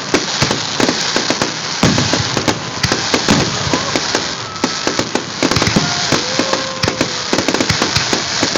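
Fireworks display: a dense run of bangs and crackling from shells bursting, with a few short whistles in the middle, recorded through a phone's microphone.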